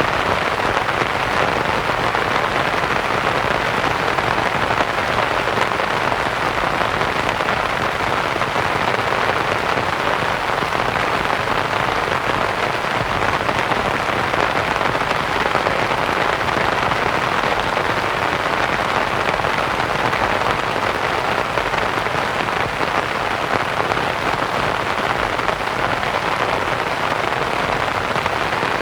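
Steady rain pattering on a canvas tent, mixed with a soft white-noise hiss; even and unbroken throughout.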